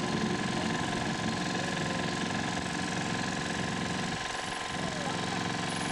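A car engine idling steadily, with a constant low pulsing running.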